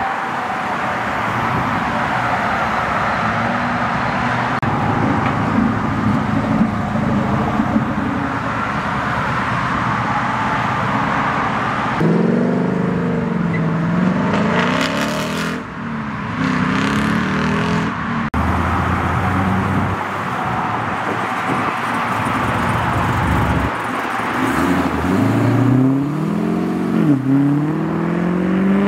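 Performance cars pulling out onto the road one after another, engines rumbling and then revving hard, the pitch climbing and dropping again through quick gear changes. Near the end a C6 Chevrolet Corvette's V8 accelerates away, revving up through a shift and climbing again.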